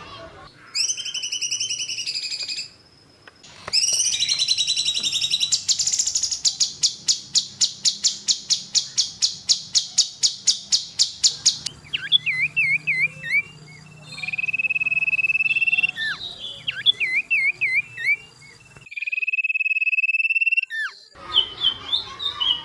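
A songbird singing a loud, varied song: chirps and twittering, a long run of sharp repeated notes at about five a second lasting several seconds, and steady held whistles. The rapid bursts are the 'tembakan' style sought in masteran training recordings.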